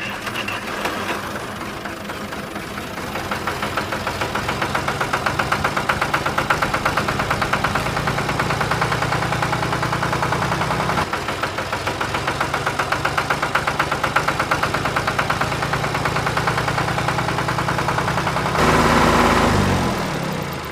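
An engine idling with a steady, fast rhythmic chug. Near the end it turns louder and noisier, and its pitch falls away.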